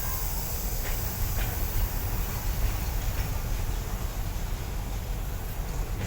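Freight train running through the station: a steady low rumble with a hiss over it, and a couple of faint clicks about a second in.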